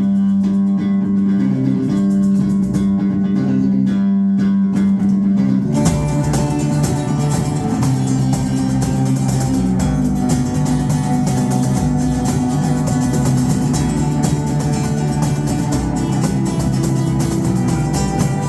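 Live rock band playing an instrumental passage: electric guitar chords ring out alone at first, then the full band joins in about six seconds in with a denser, fuller sound.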